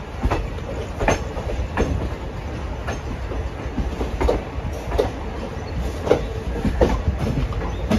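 Passenger train running, heard from inside a coach: a steady low rumble with sharp clicks of the wheels over rail joints, unevenly spaced at roughly one a second.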